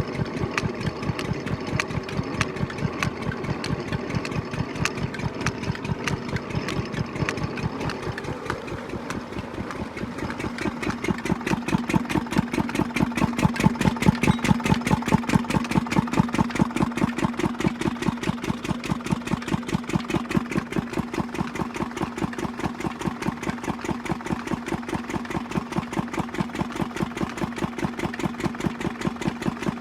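Engine running steadily with an even rhythmic beat, grows louder and fuller about ten seconds in.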